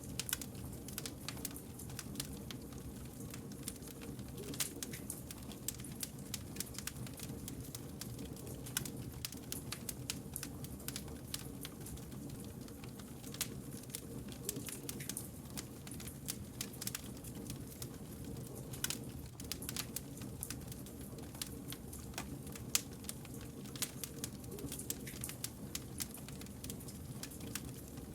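Campfire burning: frequent sharp crackles and pops of the wood over a steady low rumble of the flames.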